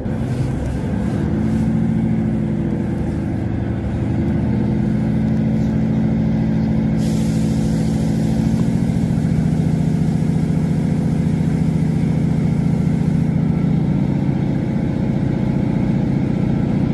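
A passenger train's engine drones steadily from on board, shifting slightly in pitch a few times. A hiss is heard from about 7 to 13 seconds in.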